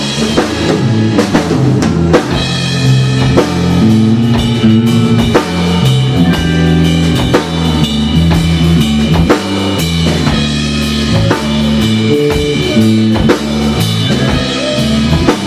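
Live rock band playing an instrumental passage between sung lines, with a drum kit keeping a steady beat under bass and guitar.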